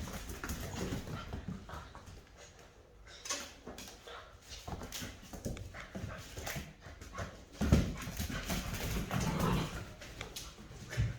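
Rottweiler puppies playing and running around with a tennis ball, their paws scrabbling and knocking in quick irregular scuffles, with one louder knock about two-thirds of the way through.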